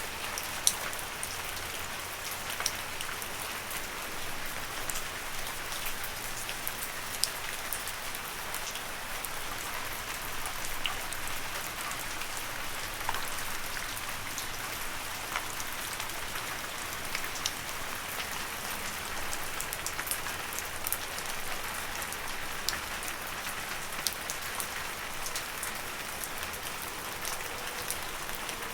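Steady rain falling on leaves, a continuous patter with scattered sharper drop hits.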